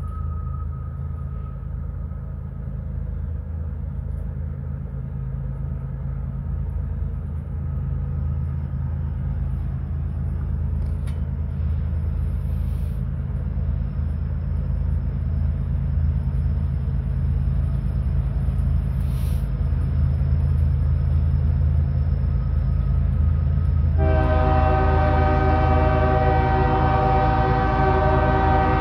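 Diesel freight locomotive approaching, its low engine rumble growing steadily louder, then the air horn sounding one long continuous blast near the end.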